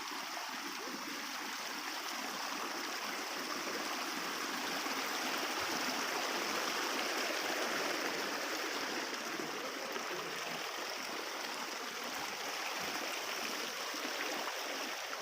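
Flowing stream water running with a steady rushing sound.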